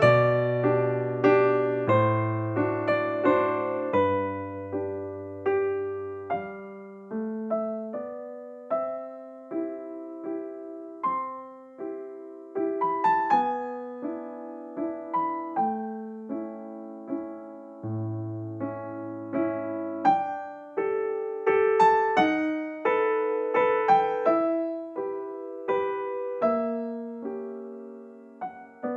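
Background piano music: a slow melody of struck notes, each fading away, with low bass notes under it in places.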